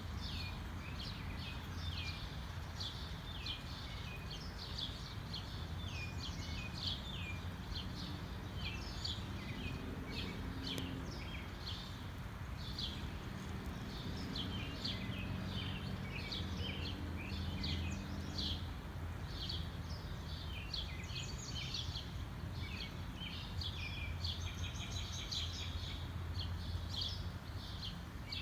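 Many small birds chirping in quick, overlapping calls without a break, over a steady low rumble.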